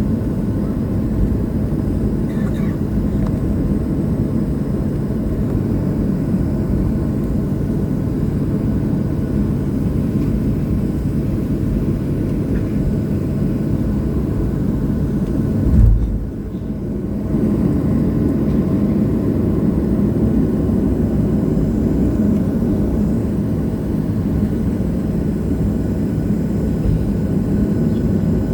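Steady low rumble of a Boeing 737-800's cabin, its CFM56 jet engines running at low power with air noise, with a single low thump about halfway through followed by a brief drop in level.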